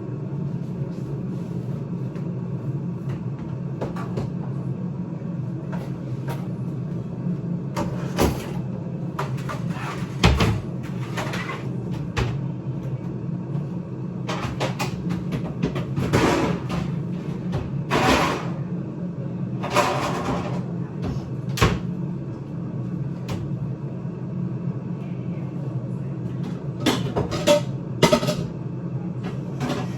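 Kitchen handling sounds: a cupboard door and containers knocking and clunking every few seconds, over the steady hum of an air fryer preheating.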